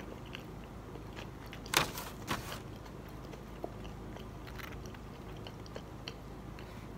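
A person chewing fried food, with two sharp crackles about two seconds in and a few faint ticks from handling the food. A steady low hum runs underneath.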